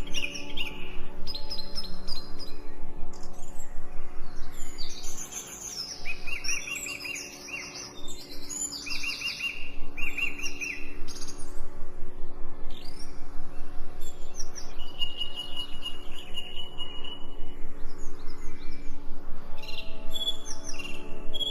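Songbirds chirping and singing in short, quickly repeated phrases, several calls overlapping, over a soft steady musical drone.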